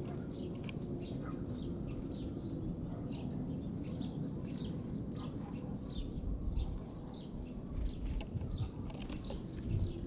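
Small songbirds chirping in a quick, repeated series of short high calls, about two or three a second, with a few sharp clicks and a steady low rumble underneath.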